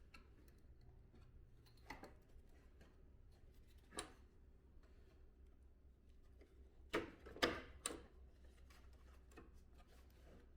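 Quiet room with light clicks and knocks of air-conditioner indoor-unit parts being handled and fitted during reassembly: one tap about two seconds in, another at four, then a quick run of three or four louder knocks a few seconds later.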